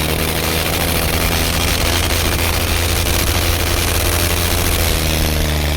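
Tractor engine running steadily, a loud low-pitched drone.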